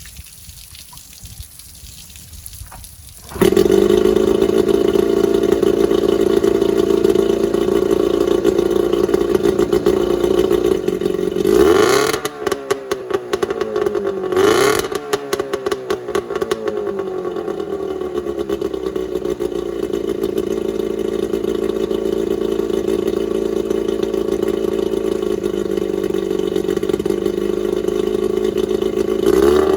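Johnson 9.9 hp two-stroke kicker outboard running on flushing muffs. It fires and catches abruptly a few seconds in, on its first start since winter storage. It is revved up and down twice near the middle and briefly near the end, otherwise running steady and strong.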